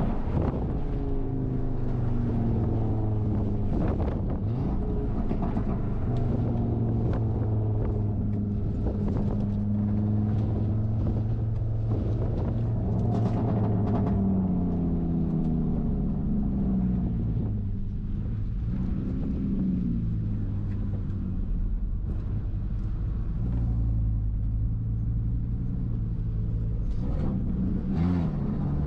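Audi RS3 engine running under way on a warm-up lap, its pitch holding steady for long stretches and falling and rising again a few times as the revs change.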